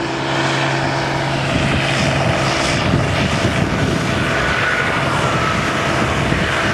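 Combine harvester running while harvesting wheat, a steady engine drone, with wind buffeting the microphone as a rough low rumble.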